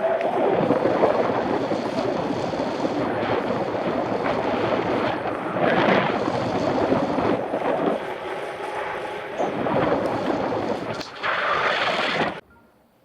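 Wind rushing over a bike-mounted action camera's microphone while riding, mixed with road traffic noise that swells several times as vehicles pass. The sound cuts off suddenly near the end.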